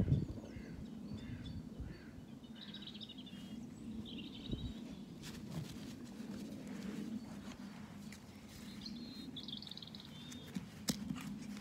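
Small birds chirping in short trills several times over a low steady rumble. A couple of sharp knocks come near the end.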